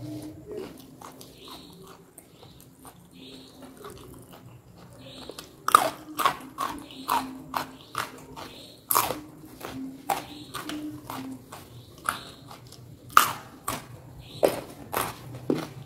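A person biting into and chewing crunchy food. The first few seconds hold soft chewing. Then come three sharp crunching bites, about six, nine and thirteen seconds in, each followed by a quick run of smaller crunches.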